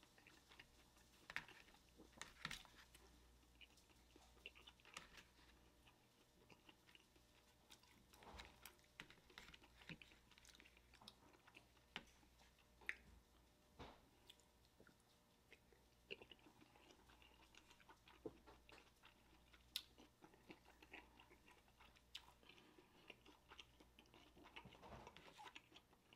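Faint close-up chewing of steamed dumplings, soft wet mouth sounds with scattered small clicks throughout.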